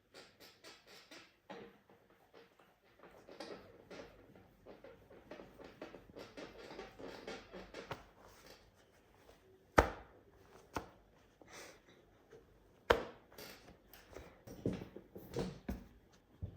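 Household handling sounds in a small room: a run of light taps and scrapes, with two sharp knocks about ten and thirteen seconds in and a quicker cluster of knocks near the end.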